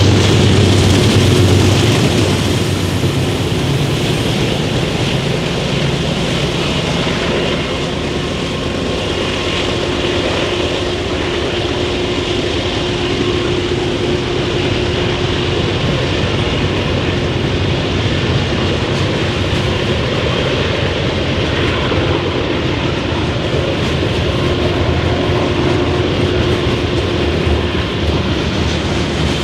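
A train rolling past on the rails. A deep engine rumble in the first two seconds eases off, leaving a steady, even rumble of the cars going by.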